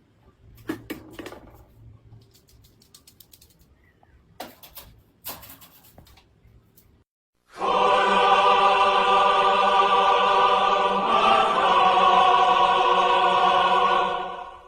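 A few faint clicks and small knocks, then, about halfway through, a loud held choir-like chord that lasts about seven seconds, shifts slightly partway through and fades out near the end.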